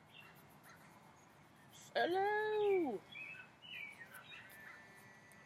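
Small songbirds chirping faintly in short calls, with a person's drawn-out, sing-song "Hello!" about two seconds in as the loudest sound.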